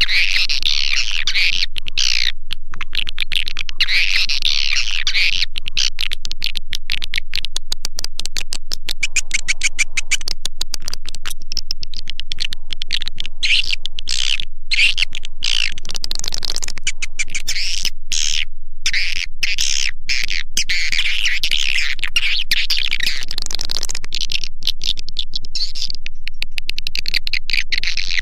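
Swiftlet calling-sound recording (suara panggil), played to lure edible-nest swiftlets into a bird house: dense, continuous high-pitched twittering and chirping, full of short clicks and without a pause.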